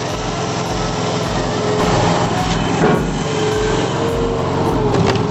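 Engine and hydraulics of a 60-ton log splitter running steadily under load, with a steady whine.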